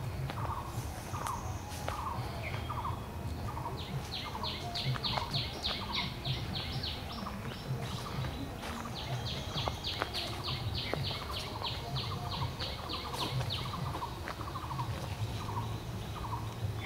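Birds calling: two long runs of short, sharp, high chirps, about four a second, over a lower falling note repeated about twice a second throughout. A low rumble and scattered clicks run underneath.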